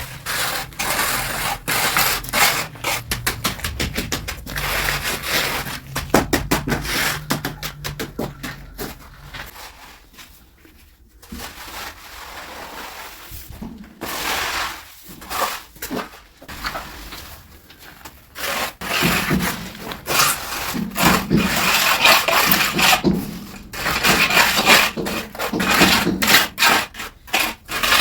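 Repeated rough scraping and rubbing strokes, fast and irregular, as of hand work on a hard surface. They thin out to scattered strokes for several seconds in the middle and pick up again about two-thirds of the way through.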